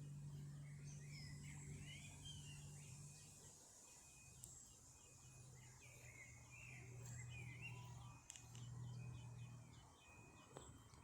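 Faint small-bird chirping and warbling, many short calls throughout, over a steady low hum that briefly drops out about a third of the way in.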